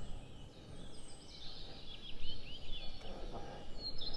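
Small birds chirping in quick, short, repeated notes, over a low, steady outdoor rumble.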